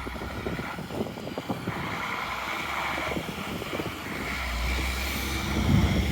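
Street traffic going by, growing louder near the end, with footsteps crunching through snow.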